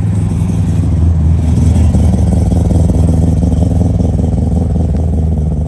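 A car engine running with a low rumble, growing louder over the first two seconds, then holding steady.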